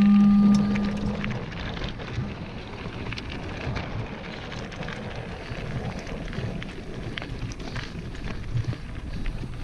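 Mountain bike tyres rolling fast over a dirt trail, with a constant patter of small clicks and rattles from the bike and wind on the microphone. A loud steady whine fades out in the first second.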